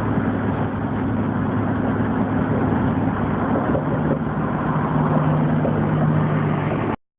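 Steady car engine hum with road and wind noise, heard from inside the moving car's cabin; it cuts off abruptly near the end.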